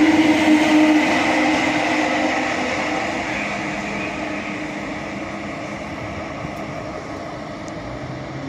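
Class 319 electric multiple unit running past on an empty stock movement, a steady hum over rolling rumble that fades as the train draws away.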